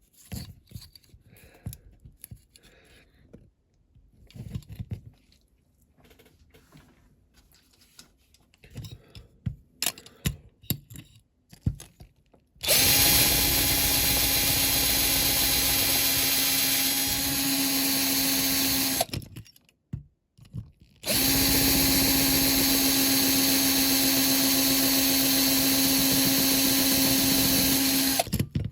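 A small electric drill runs steadily with an even whine, in two spells of about six and seven seconds with a short pause between. Before it starts there are light clicks and taps of hand-work on a diecast metal model.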